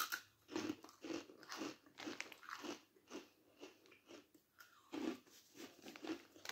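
A person biting into and chewing a crunchy Walkers Wotsits Crunchy corn-puff crisp close to the microphone. A run of short, brittle crunches comes about two or three a second, softer for a moment midway.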